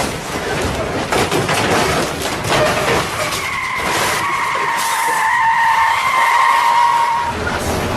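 A car's tyres squealing as it skids: one long, slightly falling squeal starting about three seconds in, over a rushing road noise.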